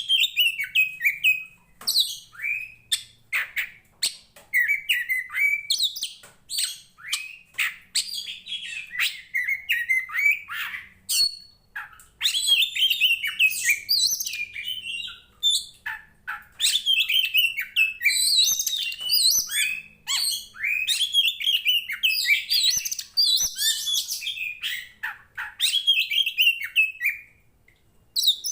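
Oriental magpie-robin singing a long, varied song: rapid runs of short whistled notes that sweep up and down in pitch, delivered in phrases with only brief gaps. It falls silent shortly before the end, then gives one more note.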